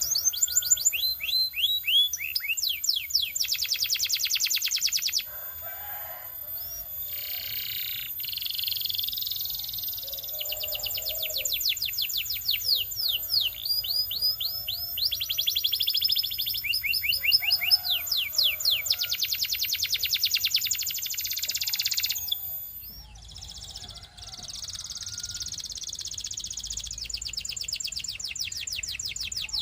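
Canary singing a long song of fast trills and rolls, each made of rapidly repeated high sweeping notes, switching from one rolling phrase to the next every second or two, with a short break about three-quarters of the way through before the song resumes.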